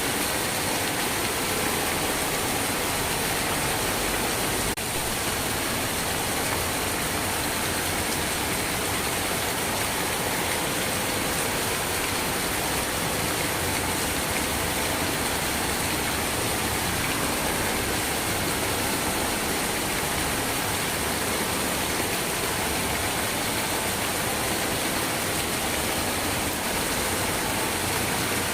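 Steady, heavy rain: a dense, even hiss of falling water that holds at one level.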